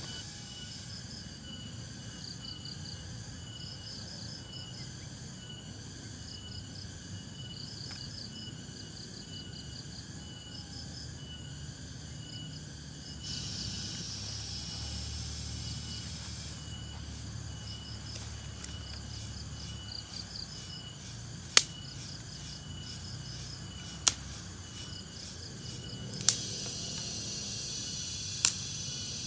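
Forest insects chirping in repeated high pulses, with a higher buzzing chorus that swells about halfway through and again near the end. Four sharp clicks or snaps come a couple of seconds apart in the second half, and they are the loudest sounds.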